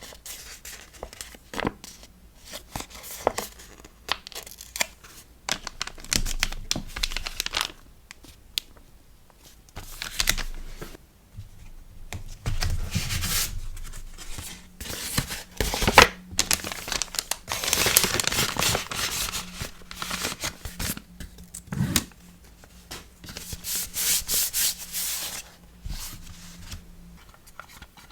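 Hands handling paper and plastic packaging while packing stickers: irregular tearing, rustling and crinkling, with light taps and clicks in between.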